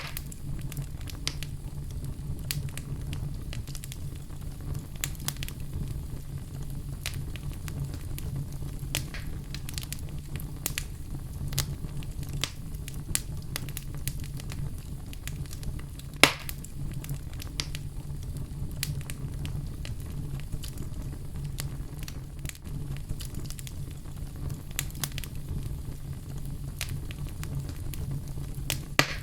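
Wood fire burning in a fireplace: a steady low rumble of the flames with irregular sharp crackles and pops throughout, one louder pop about sixteen seconds in.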